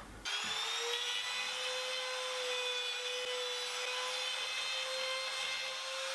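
A small high-speed power tool starts abruptly and runs at a steady, even whine.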